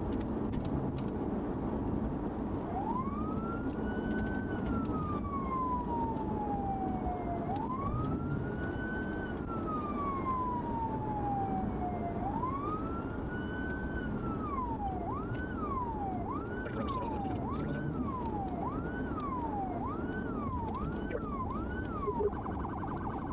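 Police car siren sounding a slow wail that rises and falls about every four and a half seconds, then switching about two-thirds of the way through to a fast yelp, and near the end to a rapid warble, over steady engine and road noise.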